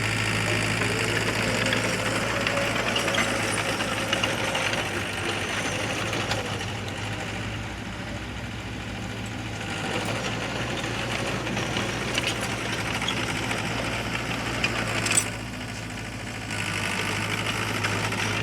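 Heavy earthmoving machine's diesel engine running steadily, with a fast rattling clatter over its hum. A sharp knock comes about fifteen seconds in; the sound then drops quieter for a second or so before picking up again.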